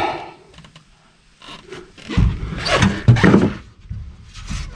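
Scraping and rubbing from the tailgate latch being handled, in a few short bouts: the latch is stuck and will not release.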